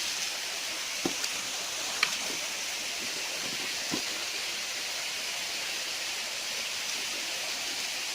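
Steady rush of flowing river water, with a few short sharp knocks about one, two and four seconds in.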